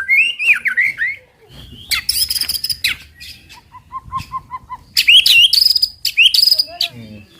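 White-rumped shama singing a varied song: sweeping whistled phrases, harsh high chatters, and near the middle a quick run of about eight even, repeated notes.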